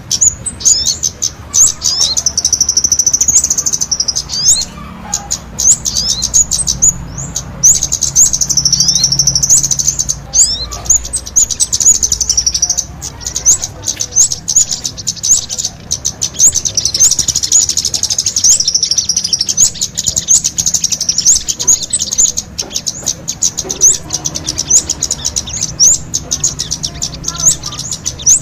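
Kemade and sogon songbirds singing together in a dense, high-pitched stream of rapid chirps and quick trills, in full active song.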